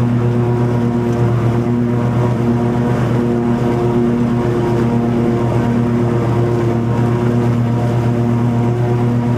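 Toro TimeCutter 50-inch zero-turn mower running steadily at mowing speed, its engine hum holding an even pitch with a slight pulsing, over the blades cutting long grass.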